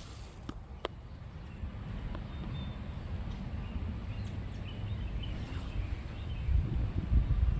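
Small birds chirping faintly over a low rumble on the microphone that grows louder toward the end, with two sharp clicks in the first second.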